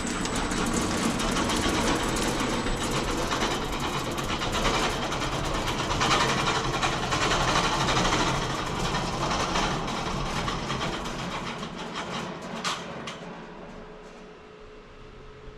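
Home-built wide bandsaw mill sawing through an English walnut log, a steady, dense clattering noise. About twelve seconds in the cutting noise dies away to a quieter hum.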